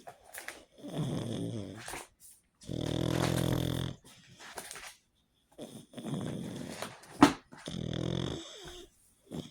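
Pug snoring in its sleep: a run of snores about a second long each, with short pauses between breaths. About seven seconds in comes a brief, sharp snort, the loudest sound.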